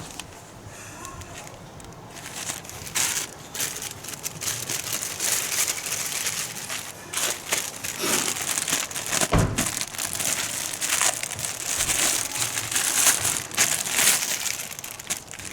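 Irregular crinkling and rustling, like something being handled, with a single low knock about nine and a half seconds in.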